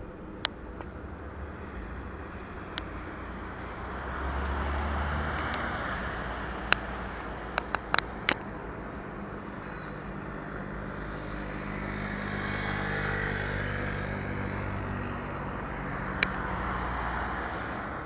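Road vehicles passing by, two swells of engine and tyre noise, with a steady engine hum in the second half. Several sharp clicks stand out, a cluster of four about eight seconds in.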